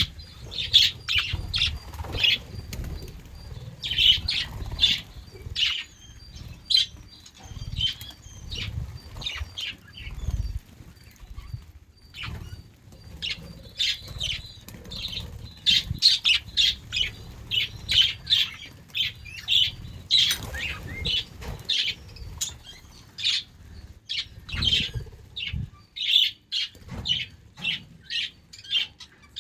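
A flock of budgerigars chirping and chattering, many quick short calls tumbling over one another, over a low rumble.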